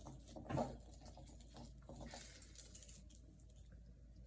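Faint rustling and small clicks of hands handling a ribbon and a pinecone while tying a knot, with a brief louder rustle about half a second in.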